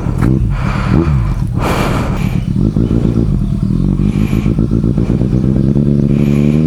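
Motorcycle engine running at low revs, with a couple of short rushes of noise in the first two seconds. Near the end the revs climb steadily.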